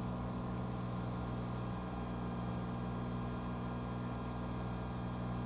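Cessna 182's piston engine and propeller droning steadily at full power in the initial climb just after takeoff.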